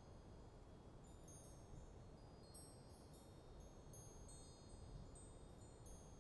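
Wind chimes tinkling faintly in a light breeze: scattered high ringing notes struck at irregular moments, over a low steady rumble of wind.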